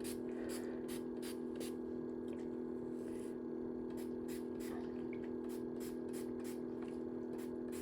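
A trigger spray bottle of water misting hair in quick squirts, about three a second, over a steady low hum.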